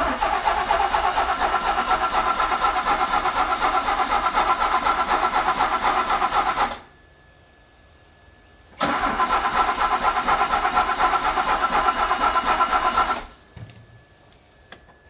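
DeLorean DMC-12's PRV V6 being cranked by its starter with a rapid even pulse, twice: a spell of about seven seconds, a pause of about two seconds, then a second spell of about four seconds that stops abruptly. The engine does not catch on either attempt: a no-start with the voltmeter showing low.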